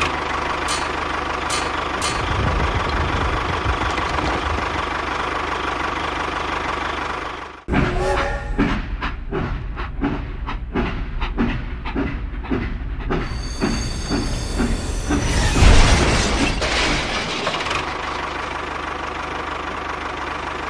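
A small machine's motor running steadily. About eight seconds in the sound breaks off into a rhythmic clatter of roughly three knocks a second, then a louder steady running noise with a heavy thump.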